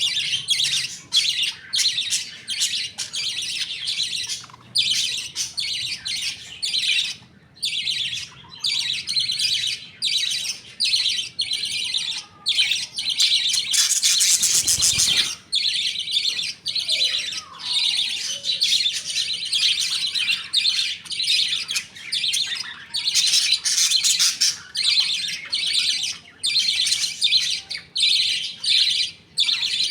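Budgerigar flock chattering continuously, a dense mix of high chirps and warbles, with a louder burst of calling about halfway through.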